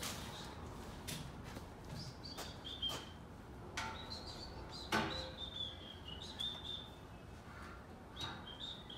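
Birds chirping faintly in short, stepping calls, with scattered clicks and knocks from the exhaust pipe being handled; the loudest knock comes about five seconds in.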